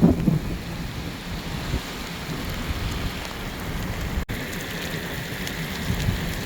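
Heavy rain falling steadily in a thunderstorm, a continuous hiss of rain on surfaces.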